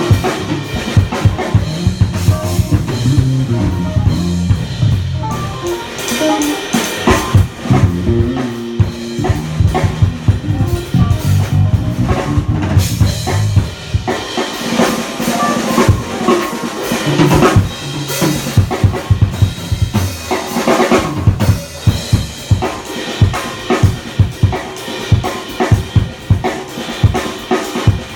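A live band playing, driven by a drum kit with bass drum and snare hits over a bass line.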